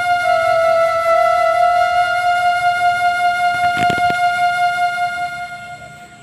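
Background music: one long held flute note that steps down slightly in pitch near the start and fades out near the end. A few quick clicks come about four seconds in.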